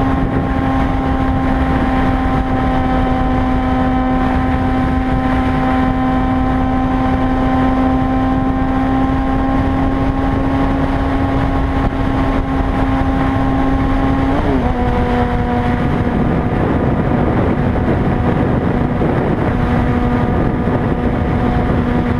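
Honda CBR600RR inline-four engine, through an MBRP slip-on exhaust, running at a steady high, even pitch while riding, with wind rushing over the microphone. About fourteen seconds in, the pitch jumps briefly and then settles slightly lower.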